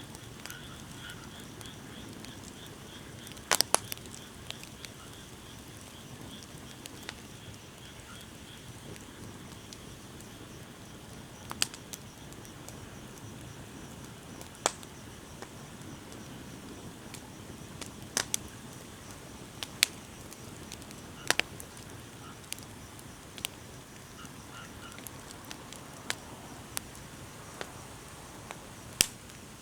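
Wood bonfire crackling: irregular sharp pops and snaps every few seconds over a steady low hiss of burning.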